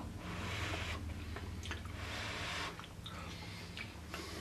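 A man chewing a mouthful of soft dumpling, faint moist mouth sounds and small clicks over a low steady hum.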